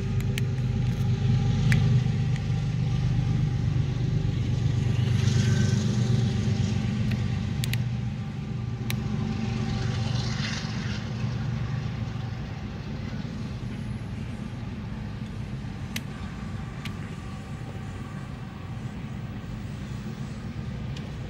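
BNSF diesel-electric freight locomotives rumbling past and pulling away, their low engine rumble fading over the first half. The lighter rumble of double-stacked container cars rolling by follows, with occasional sharp clicks.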